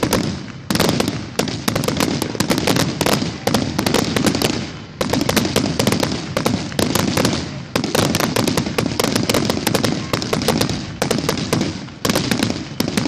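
Fireworks going off in a dense run of rapid cracks and bangs, with brief lulls before fresh volleys start about one, five, eight and twelve seconds in.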